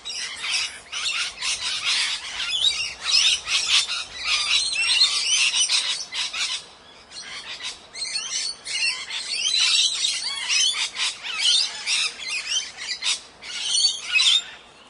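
Parrots squawking and chattering in a dense run of fast, shrill calls, with a short lull about halfway through.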